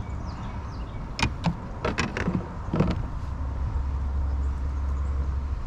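A handful of sharp knocks and clatters, clustered about one to three seconds in, over a steady low wind rumble on the microphone.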